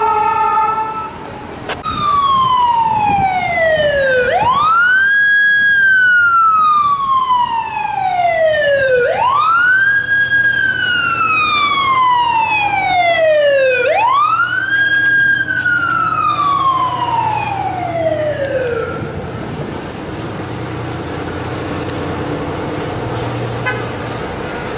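Fire apparatus siren in wail mode: three slow cycles, each a quick rise in pitch and a long falling glide, about five seconds apart. It is preceded by a brief horn-like blast at the start, and followed near the end by the low hum of engine and traffic.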